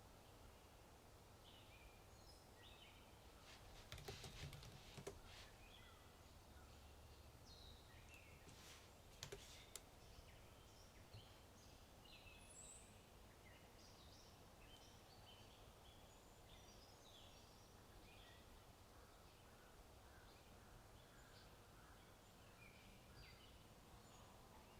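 Faint birdsong, many short chirps scattered throughout over a low steady hum. A few quick clicks of keyboard typing come about four seconds in and again around nine seconds.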